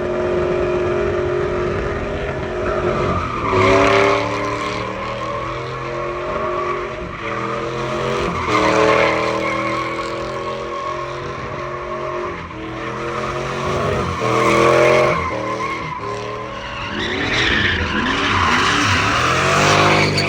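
A car engine revving hard in repeated surges, about four over the stretch.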